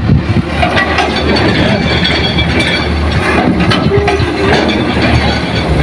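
Hitachi excavator's diesel engine running under load while it digs and loads soil into a dump truck, a steady low rumble with scattered knocks and clanks and a brief whine about four seconds in.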